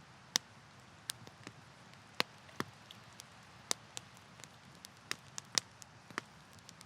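Wood campfire crackling: irregular sharp pops and snaps over a soft steady hiss, the loudest pops about half a second in and near the middle of the second half.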